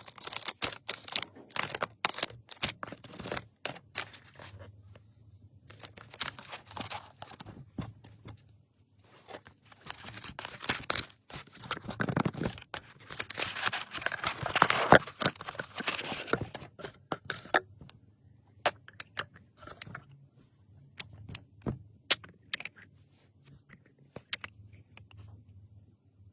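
Hands unwrapping and handling packaging: irregular rustling, crinkling and tearing in bursts, loudest around the middle. Near the end the rustling gives way to scattered sharp clicks and taps.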